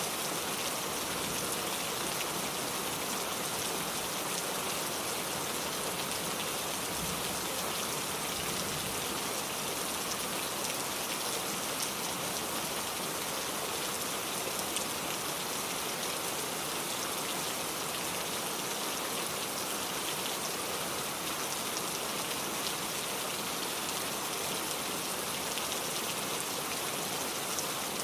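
Steady rainfall, a dense even patter of many small drops hitting surfaces.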